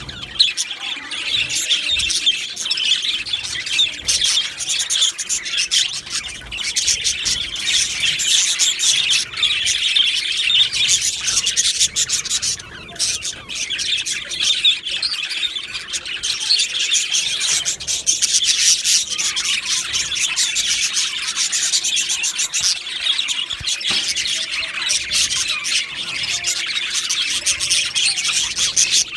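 A flock of budgerigars in an aviary chattering constantly, a dense mix of quick high chirps, warbles and squawks from many birds at once.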